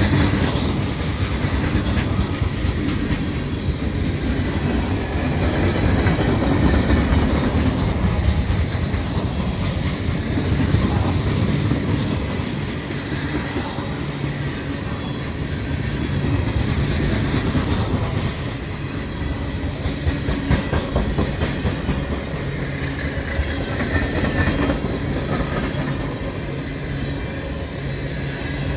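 Freight cars of a mixed freight train (boxcars, hoppers and tank cars) rolling past close by: a steady rumble of steel wheels on rail with a running clickety-clack of wheels passing over the rail.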